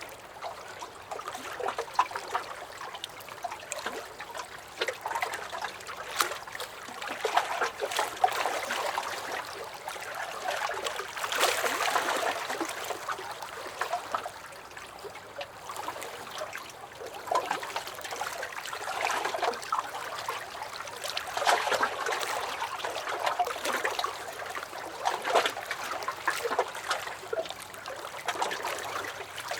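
Small lake waves lapping and splashing against a dock, in irregular swells every few seconds, with little sharp slaps and trickles of water.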